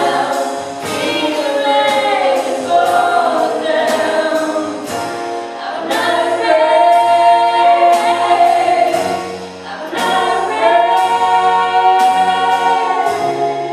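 Group of voices singing a worship song over instrumental accompaniment with a steady beat and a bass line.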